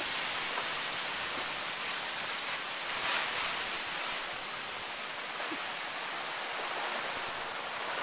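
Heavy thunderstorm rain pouring down in a steady downpour, swelling slightly about three seconds in.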